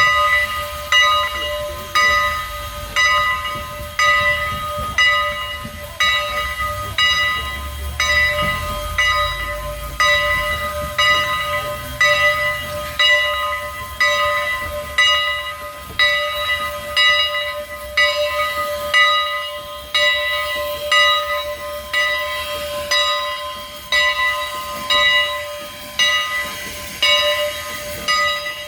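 Steam locomotive's bell ringing steadily, about one stroke a second, over a steady hiss of steam. A low rumble stops about twelve seconds in.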